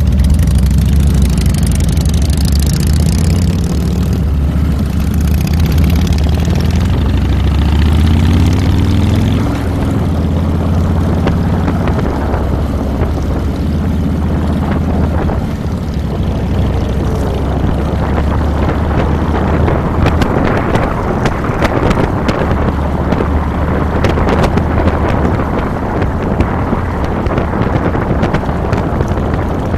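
Harley-Davidson Fat Boy's V-twin engine running, a steady low engine note for the first ten seconds or so, its pitch shifting around nine seconds in. After that, rushing wind and road noise on the handlebar-mounted microphone grows over the engine.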